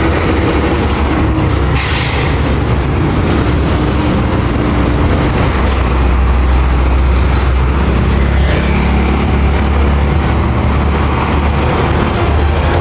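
Vehicle engine and road noise while riding in city traffic: a steady low rumble, a short sharp hiss about two seconds in, and the engine note rising from about eight seconds in as it pulls away.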